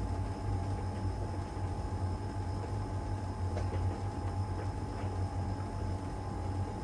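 LG heat pump tumble dryer running mid-cycle in its drying phase, the drum turning the load. A steady low hum with a steady higher whine over it, and a few faint taps about halfway through.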